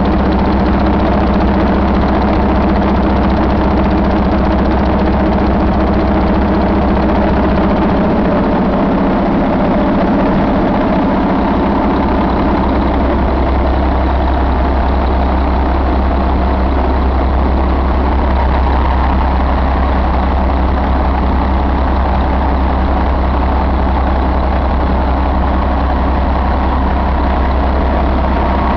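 2004 Mercedes-Benz MBE4000 inline-six diesel engine running steadily at idle. Its low drone wavers briefly about ten seconds in.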